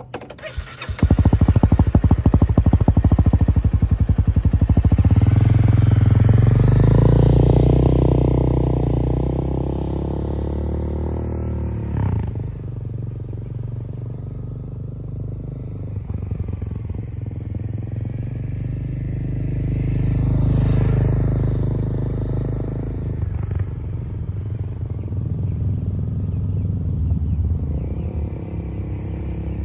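Honda CBR300R's single-cylinder engine revved in place through a Yoshimura R77 slip-on exhaust. The revs jump sharply about a second in and are held high for several seconds before easing off, then rise again about two-thirds of the way through and drop back near the end.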